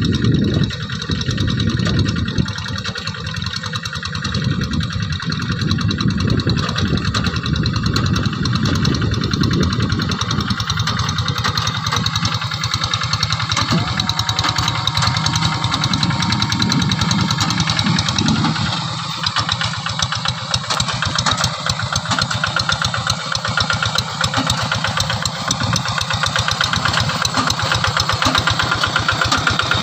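Quick G3000 hand tractors' engines running steadily under load while plowing, with a rapid, even firing beat that shifts slightly as the load changes.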